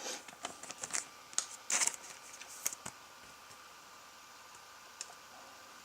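Trading cards being handled: a few soft rustles and light clicks, mostly in the first three seconds, with one more small click about five seconds in.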